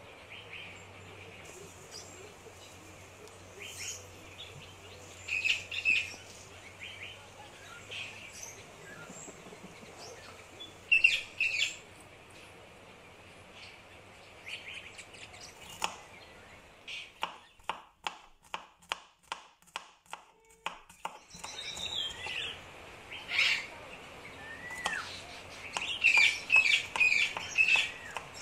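Small birds chirping and tweeting again and again, in short bright calls and a few gliding notes. In the middle comes a run of even knocks, about three a second.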